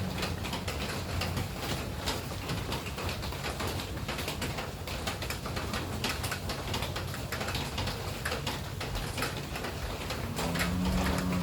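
Rain falling, heard as an uneven patter of sharp drips and taps, over a low steady hum. Near the end a dove coos once.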